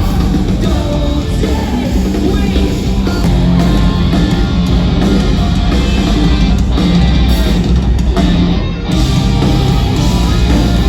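Live rock band playing loud, with a brief drop-out about nine seconds in before the full band comes back in.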